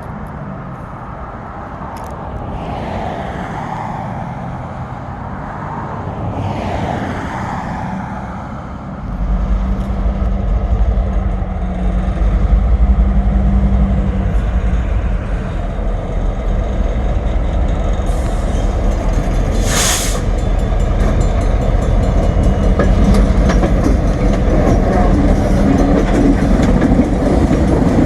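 A freight train passing close by: a loud, steady low rumble of the train sets in about a third of the way through and carries on to the end. A brief sharp burst of noise comes about two-thirds of the way through.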